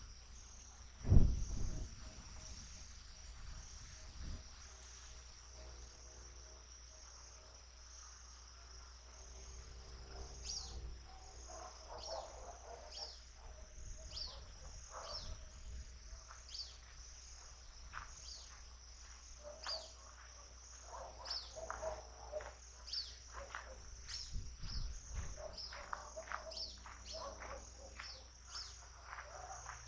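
Natural outdoor soundscape: a steady high-pitched insect trill, like crickets, runs throughout. From about ten seconds in, birds join with many short, quickly falling chirps and lower calls. A low thump comes about a second in.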